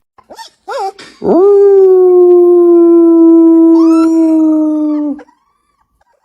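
A dog gives two short yips, then one long howl of about four seconds that holds a steady pitch, sinking slightly before it cuts off.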